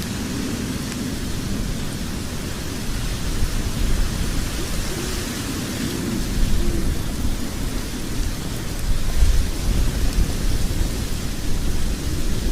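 Log fire burning in a fireplace: a steady hiss over a low, rumbling roar, which grows louder near the end.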